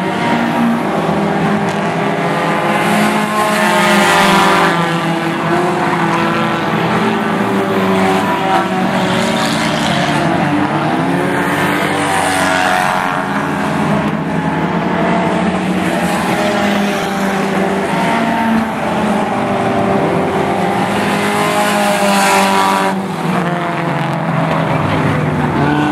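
Several race cars running hard in a pack, their engines' pitch climbing and dropping as they accelerate, lift and pass.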